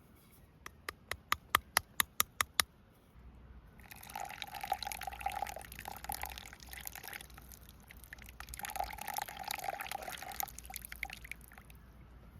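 A quick run of about ten sharp clicks, then liquid being poured into a container in two spells.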